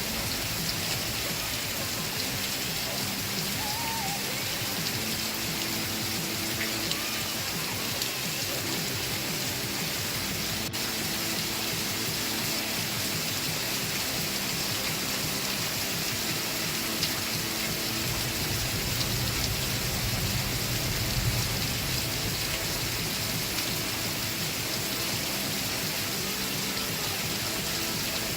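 Steady rain falling, with muffled music playing faintly underneath. A low rumble swells briefly past the middle.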